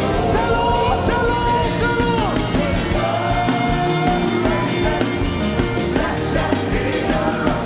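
Live worship music: a band playing with a held, sliding melody line over it, sung or played, no clear words.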